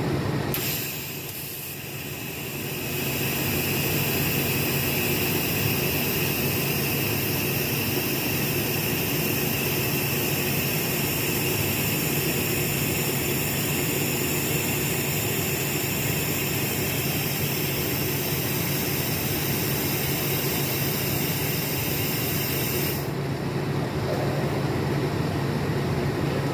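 TIG welding arc on a stainless-steel exhaust tube: a steady high-pitched hiss with a few fixed high tones. It strikes about half a second in and cuts off sharply a few seconds before the end, over a steady low hum.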